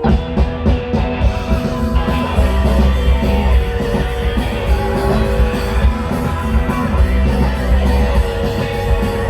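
Rock music played loud on electric guitar, bass and drums, with a steady beat.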